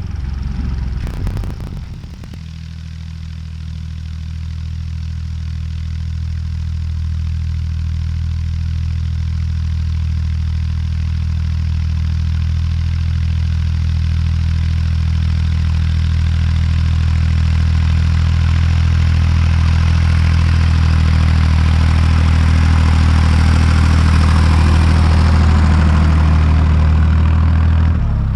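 Tractor diesel engine running at a steady speed while pulling a cultivator, growing gradually louder. A few clicks sound about a second in, and the sound changes abruptly near the end.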